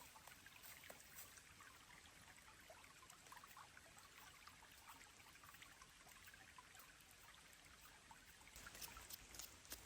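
Near silence: faint outdoor ambience with scattered small ticks, and a few louder clicks near the end.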